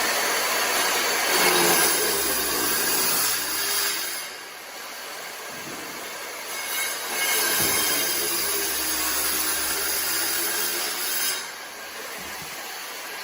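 A power tool cutting stone, running in two cuts of about four seconds each, with a quieter spell between them.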